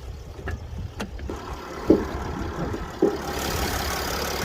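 Mercedes ML 280's 3-litre V6 diesel engine idling as a steady low rumble. A few light clicks and two sharp thumps occur, and about three seconds in a broad hiss comes up over the idle.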